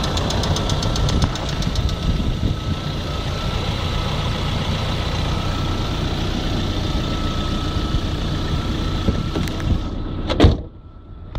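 Lada Priora engine idling with a fast, even ticking knock that the owner suspects comes from the hydraulic lifters or the pistons and connecting rods, despite fresh oil and filters. A loud thump comes near the end, after which the engine sound falls away.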